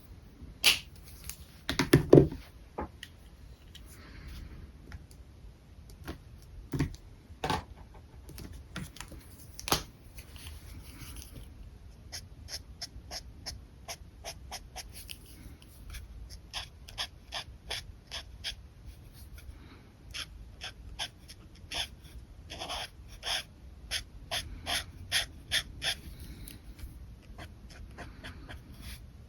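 Marker tips scratching across paper in quick, repeated short strokes, coming about two to three a second in the second half. A louder thump about two seconds in.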